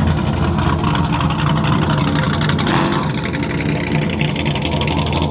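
A loud, straight-through exhaust on a C5 Chevrolet Corvette's V8, running steadily at low revs.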